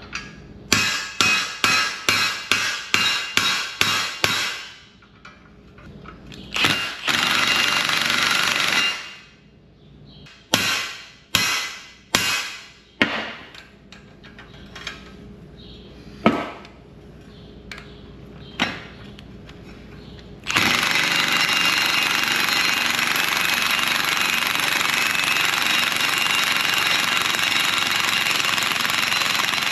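Impact wrench hammering in short bursts on a bearing puller's screw, straining against a tight bearing, with a couple of single knocks in between; about two-thirds of the way in it starts hammering continuously.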